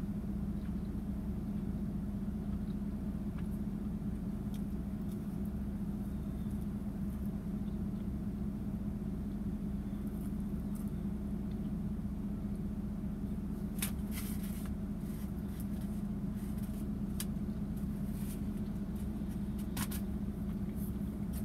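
Steady low hum of a parked car's idling engine, heard inside the cabin. A few light clicks and rustles sound in the second half.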